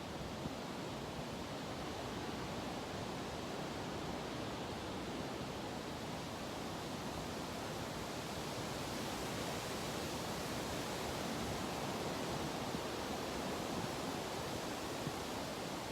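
Steady, even background hiss with no distinct sounds; it swells slightly in the middle and there are a couple of faint ticks.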